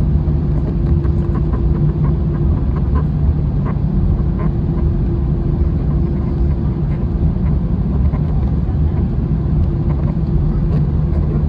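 Airbus A321 cabin noise: a steady, loud rumble of engines and airflow with a constant hum and a few faint light clicks and rattles.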